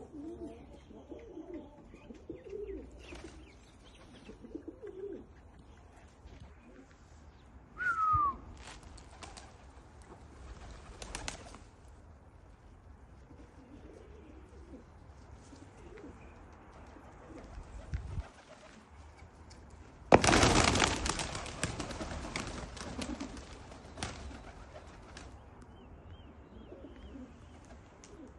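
Domestic pigeons cooing, with a short falling whistle about eight seconds in. About twenty seconds in comes a loud flurry of wing flapping lasting a few seconds.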